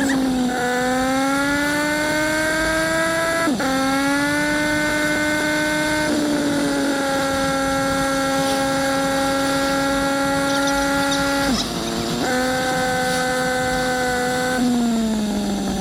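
Yamaha MT-09's three-cylinder engine under way, its pitch climbing with the revs and then dropping sharply at a gear change about three and a half seconds in. After that it holds a steady cruise, dips briefly near twelve seconds and eases off near the end, over a steady rushing noise.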